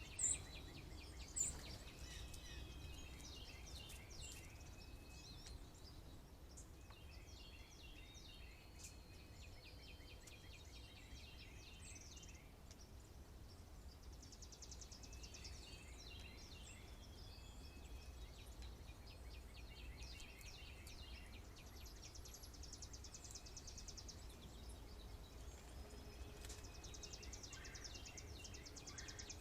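Faint outdoor birdsong: many wild birds chirping and trilling, with two sharper high calls near the start, over a steady low background rumble.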